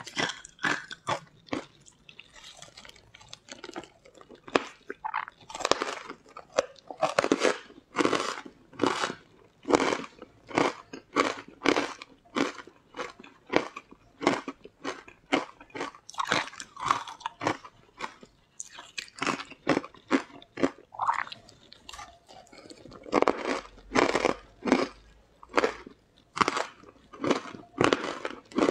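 Close-up crunching and chewing as a person bites into and eats crumbly green chunks, picked up on a lapel microphone. Crisp crunches come in quick succession, easing off briefly a couple of seconds in, then resuming.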